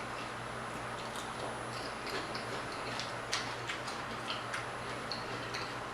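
Soft, irregular mouth clicks and smacks of someone eating noodles close to the microphone: faint ticks at uneven intervals over a steady low hum.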